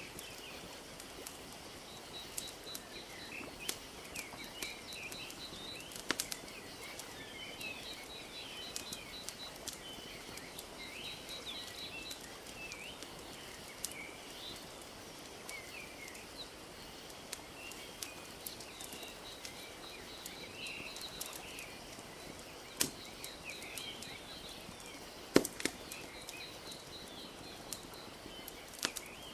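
Wood fire crackling with scattered sharp pops, the loudest about 25 seconds in, over a soft steady wash of lapping lake water. Birds chirp throughout, with a rapid high trill repeating.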